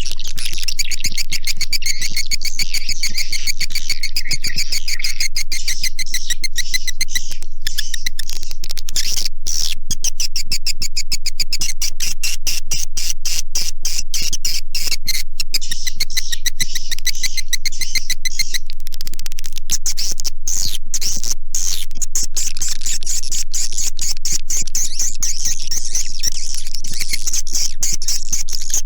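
Swiftlet lure call: a loud, unbroken stream of rapid high chirps and clicks from edible-nest swiftlets, the kind of recording played to draw swiftlets into a nesting house.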